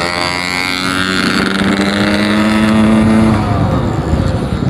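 Yamaha RX-King 135cc two-stroke single-cylinder engine pulling under throttle on the move, its note climbing slightly for a few seconds and then dropping away near the end, with wind and road noise. The rider finds the low-rpm pull poor and slow to rev up, and puts it down to the carburettor's low-end jetting not being set right.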